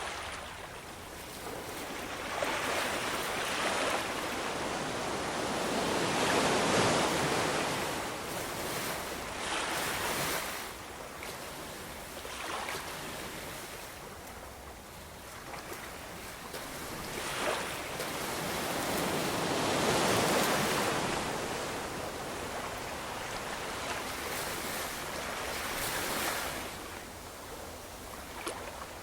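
Ocean waves breaking and washing on a shore, the surf swelling and falling back in slow surges every few seconds.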